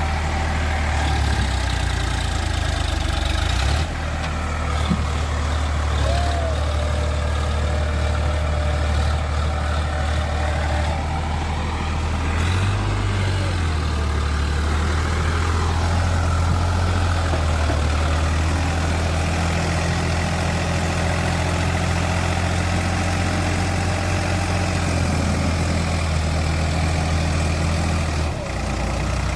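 Tractor engine running steadily with a low, even hum. The sound changes abruptly a couple of times.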